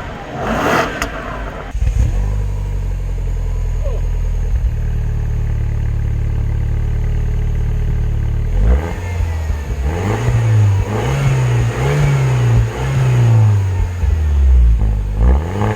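Car engine catching about two seconds in on a cold start and idling steadily. From about halfway it is revved several times in quick rises and falls.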